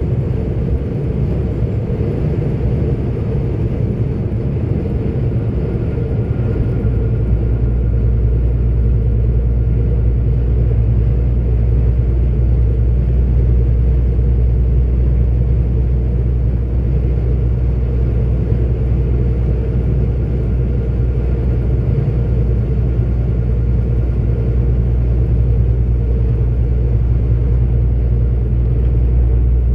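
A 44-ton articulated truck on the move, heard from inside the cab: a steady low rumble of engine and road noise. About six seconds in, the deepest drone strengthens and holds.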